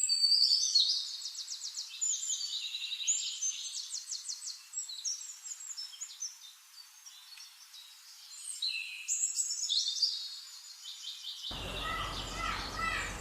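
A songbird singing a long, varied song of rapid trills and quick high notes. Near the end it cuts abruptly to a different, noisier recording with other shorter bird calls.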